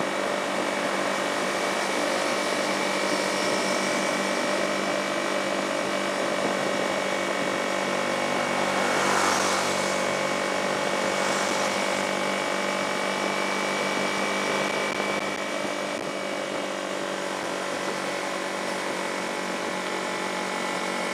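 Kawasaki sport motorcycle engine running at a steady cruising speed, with wind rushing past. About nine seconds in there is a brief louder rush of noise.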